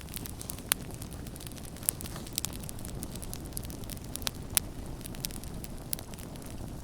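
Campfire burning with a steady low rumble and irregular sharp crackles and pops of burning wood, several louder pops scattered through.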